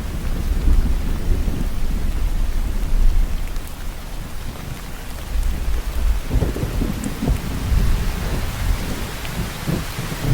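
Steady heavy rainfall with low rolling thunder rumbling underneath; the thunder eases about four seconds in and builds again about two seconds later.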